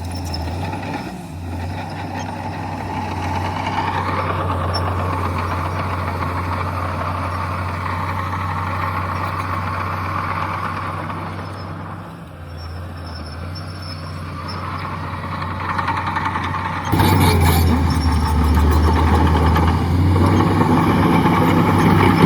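Heavy diesel earthmoving machinery running under load with a steady low engine drone. It works harder from about four seconds, eases off around twelve, and from about seventeen seconds turns sharply louder with a rattling clatter.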